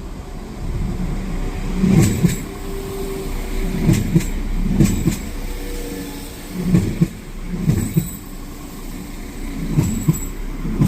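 A train passing slowly, its wheels knocking over the rail joints in pairs every second or two over a low running rumble.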